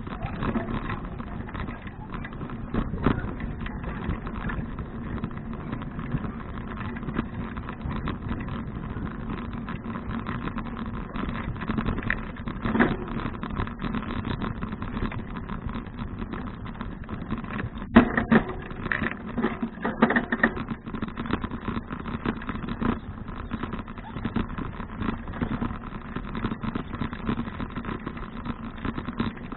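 A 2012 Fuji touring bicycle being ridden: steady tyre and road noise with frequent rattling clicks from the bike, and a sharp knock about 18 seconds in followed by a few seconds of louder rattling.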